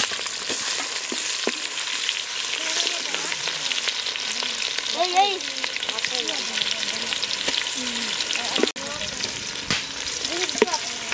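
Chopped onions and green chillies frying in hot oil in a large aluminium pot, with a steady sizzling hiss. The hiss cuts out for a moment about two-thirds of the way through.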